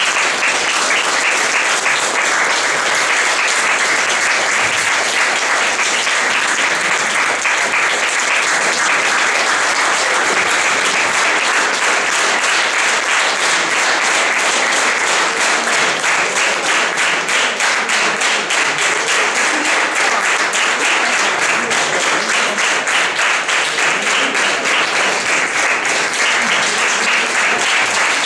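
Audience applauding, a loud, dense sustained clapping; in the second half the clapping becomes more regular and even.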